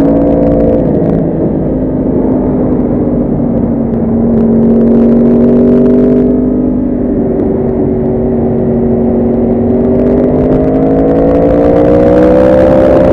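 Motorcycle engine running under way, its pitch shifting with throttle and gear: a drop about a second in, a long steady stretch, then a steady climb through the last few seconds.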